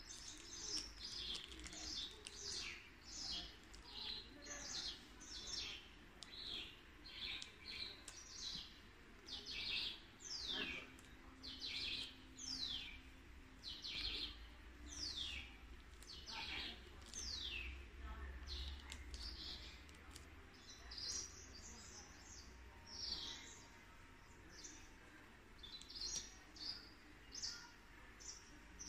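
Bird chirping: a long run of quick, high chirps, each sliding downward in pitch, one or two a second, over a faint low hum.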